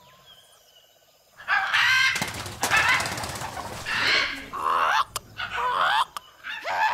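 Near silence for about a second and a half, then loud bird squawks: several pitched cries that rise and fall, over a rough noise like flapping.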